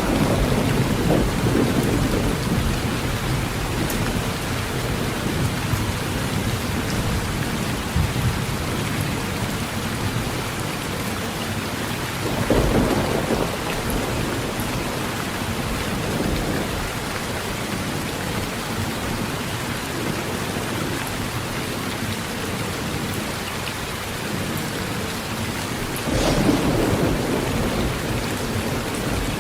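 Heavy rain drumming steadily on a tin roof, with thunder rumbling three times: at the start, about halfway through, and again near the end.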